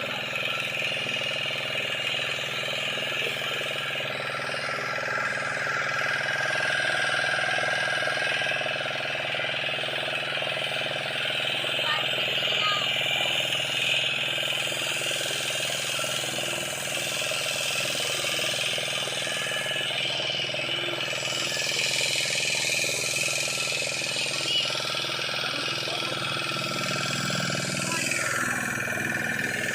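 A steady engine hum, running evenly without rising or falling, with voices faintly in the background.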